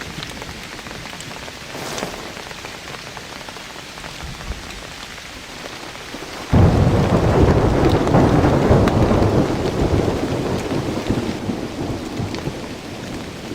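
Steady rain falling, with a clap of thunder breaking in suddenly about halfway through and rumbling, slowly fading over the next several seconds.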